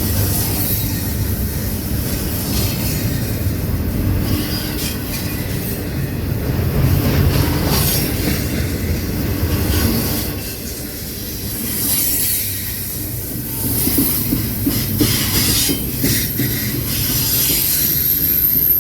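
Train rolling past: a steady low rumble of the cars, with wheels clacking over the rail joints.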